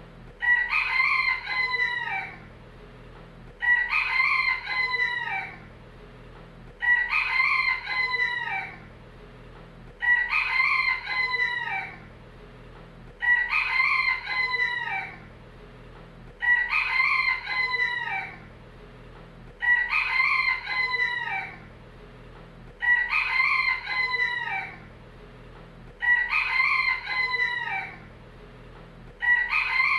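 Rooster crowing a full cock-a-doodle-doo again and again, about one crow every three seconds. Each crow lasts about two seconds and looks the same each time, as a looped recording would.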